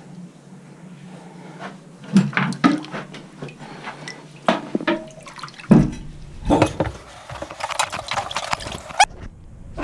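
Sharp clicks and knocks, then water rushing and splashing for about a second and a half that cuts off suddenly.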